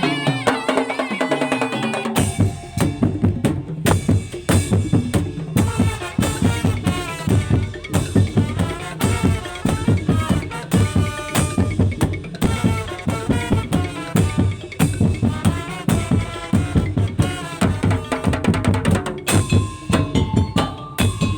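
Madurese tong-tong (daul) ensemble playing: a sustained melody alone for the first two seconds, then the drums and percussion come in with a fast, steady beat under it. Near the end the drumming thins under held tones.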